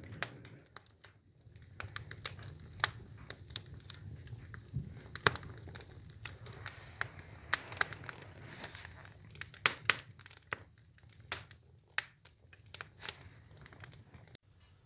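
Wood fire crackling in a stove-fireplace as offcuts of wooden lining board burn: irregular sharp pops and snaps over a steady low drone.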